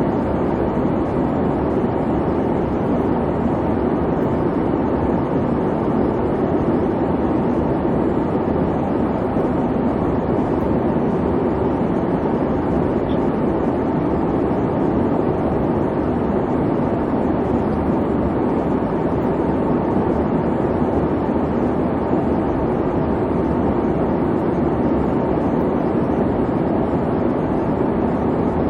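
Airplane cabin noise: the engines' steady, even rumble and hum, unchanging throughout.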